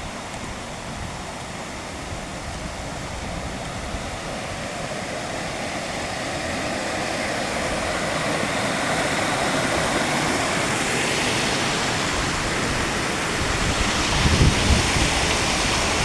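Waterfall rushing as a steady wash of noise that grows steadily louder as the falls are approached, with a brief low rumble near the end.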